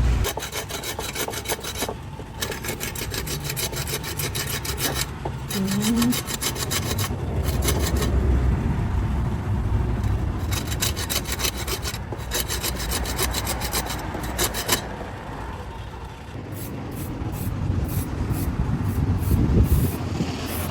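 Rapid back-and-forth scraping strokes of a hand tool working the piece, about five or six strokes a second, in runs of a few seconds with short pauses between them, lighter near the end.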